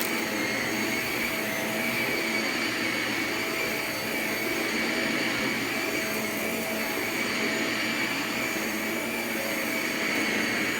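Vacuum cleaner running steadily, a constant motor whine over an even rush of suction.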